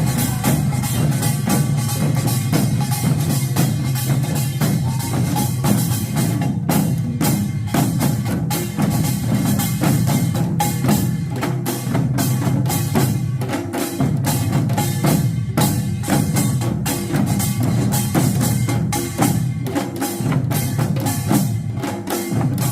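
Korean pungmul percussion ensemble playing a fast, continuous rhythm, with the small kkwaenggwari gong clanging over janggu and buk drums.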